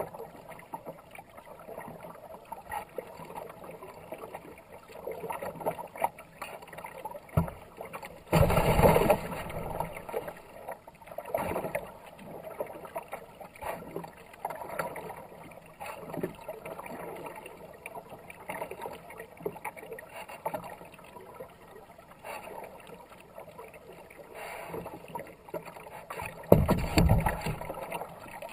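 Kayak paddle dipping and splashing in repeated strokes, with water rushing along the hull. There is a louder rush about eight seconds in and again near the end.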